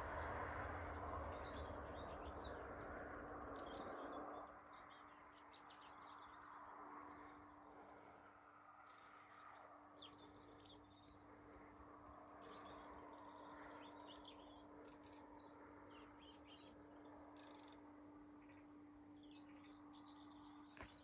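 Small songbirds chirping and twittering faintly in short scattered calls, with a rushing noise in the first four seconds.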